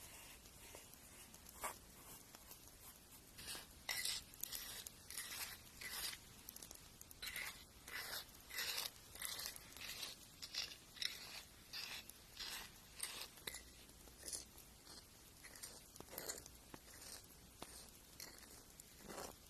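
Fingernails being filed: short, irregular scratchy strokes of a file across the nail, coming quickly, about two a second, through the middle and thinning out toward the end.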